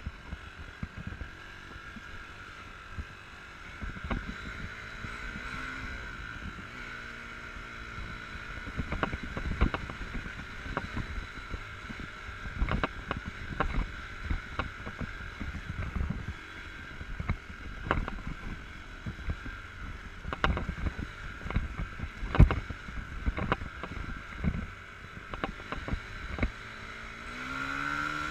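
Enduro motorcycle engine running, its revs rising about five seconds in and again near the end. Frequent sharp knocks and thumps sound throughout, the loudest a little after twenty seconds.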